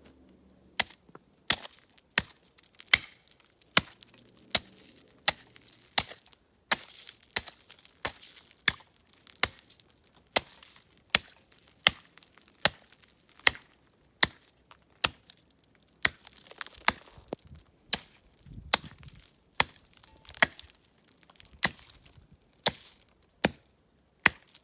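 Chopping through pond ice with a bladed hand tool to reach water: a long run of sharp, evenly spaced chops, a bit more than one a second.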